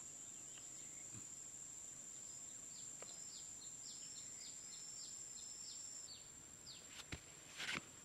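Outdoor ambience of a steady, high-pitched insect drone, with a bird singing a quick run of short, falling chirps through the middle. Near the end comes a sharp click, then a brief rustle.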